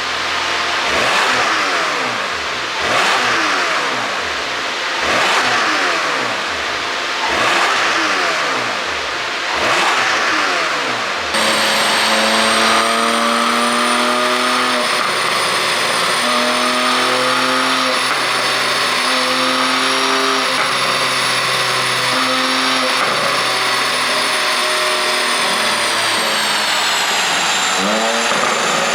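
Porsche 718 Cayman GTS 4.0's flat-six engine, running an ECU pop-and-crackle tune, revved in five blips about two seconds apart, its pitch falling back after each. About eleven seconds in, the sound changes abruptly to a steady, sustained run with a high whine.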